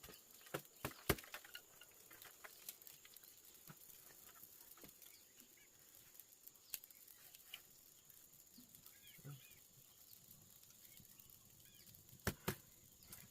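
Quiet background with scattered sharp clicks and knocks, a few about a second in and a close pair near the end, and faint bird chirps about two-thirds of the way through.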